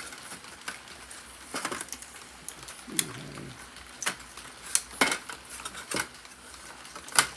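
Hands working a model railroad boxcar out of its packaging: a series of sharp plastic-and-cardboard clicks and taps, about seven, the loudest near the end.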